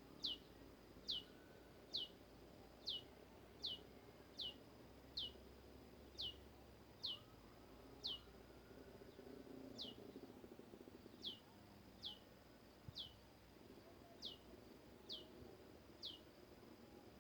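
Prenjak lumut, a small Indonesian warbler, calling: a short, sharp note that sweeps steeply downward, repeated about once a second in a long steady series.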